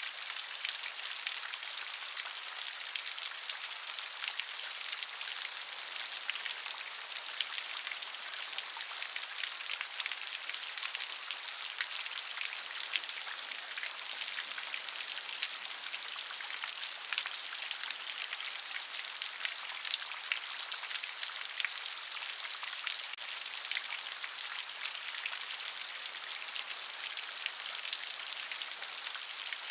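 Steady rain, a dense patter of many small drops hitting a surface, an even hiss with fine ticks and no let-up.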